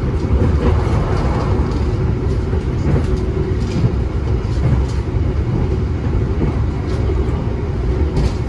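Steady running rumble of an Argo Muria passenger train, heard inside the carriage. There is a faint steady hum and a few light clicks at uneven intervals.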